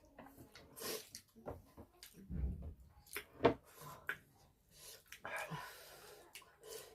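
Close-up eating sounds: chewing and wet mouth noises, with a run of short irregular clicks and a sharp knock about three and a half seconds in, just after a low thump.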